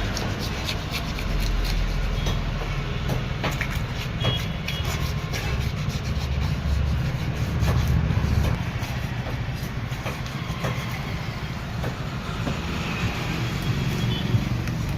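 Steady low rumble like road traffic, with scattered short knocks and scrapes from a knife working on a large parrot fish.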